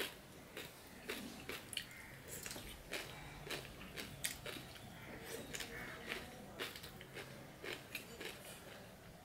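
Faint close-up eating sounds: chewing with irregular sharp mouth clicks and smacks, a few a second.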